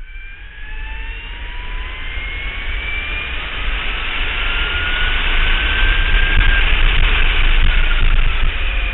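Electric racing motorcycle's motor whine, a high tone gliding upward as the bike accelerates and getting steadily louder, with a low rumble of wind noise underneath.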